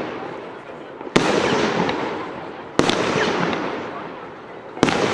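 21-shot 'Spaceline' firework battery firing, three shots about two seconds apart. Each is a sharp bang followed by crackling and hissing that fades away.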